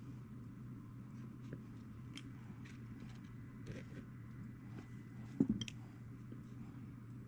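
Leather-working handling sounds: scattered small clicks, taps and scrapes of tools and leather, with one louder knock about five and a half seconds in, over a steady low hum.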